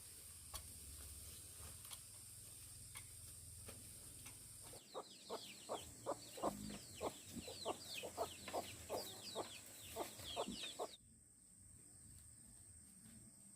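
Chicken clucking in a rapid run of short, repeated calls, about three a second. The calls begin about five seconds in and cut off abruptly near eleven seconds, over a steady faint high whine.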